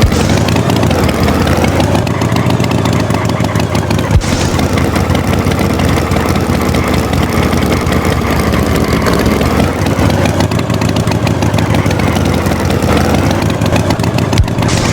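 A motor vehicle engine running steadily, its pitch wavering a little, with a sharp knock about four seconds in and another near the end.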